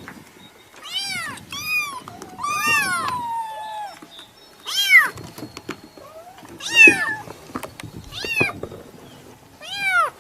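Domestic cat meowing repeatedly, about seven separate meows each rising and falling in pitch, one of them longer and drawn out about three seconds in.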